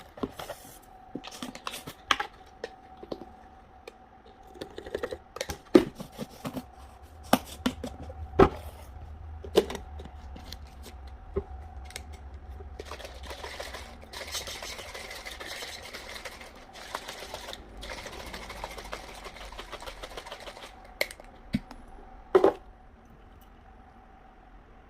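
Drinking a strawberry protein shake: scattered clicks and knocks from the cup and mouth, the sharpest about six, eight and twenty-two seconds in, over a faint steady hum.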